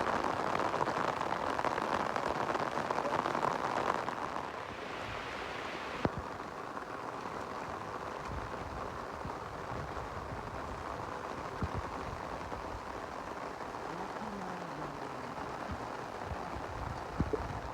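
Steady rain falling, heavier for the first four seconds and then lighter, with a few sharp drip-like clicks.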